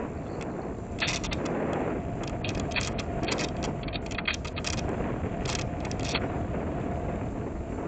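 Onboard audio from a small electric RC plane in flight: a steady rush of airflow and motor/propeller noise, broken by many short gritty buzzes from the micro servos as they move the control surfaces.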